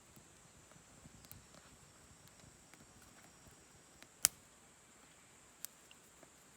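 Campfire crackling quietly with scattered small ticks, and one sharp pop about four seconds in followed by a smaller one a second later, over a faint steady high hiss.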